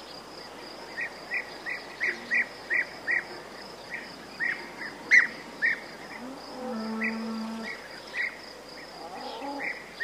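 Small birds chirping repeatedly in short sharp notes over a steady insect drone, with a Holstein cow giving a short low moo about seven seconds in.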